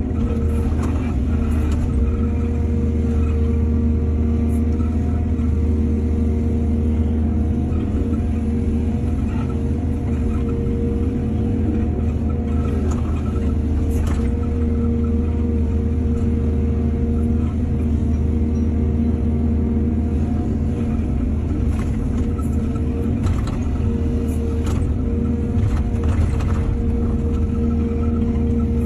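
Excavator's diesel engine running steadily under load, a deep rumble with a steady whine, with scattered short knocks and scrapes of the machine working soil.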